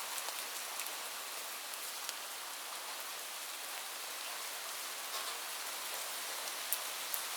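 Steady rain falling, a dense hiss with scattered sharp drop ticks standing out here and there, a few of them near the end.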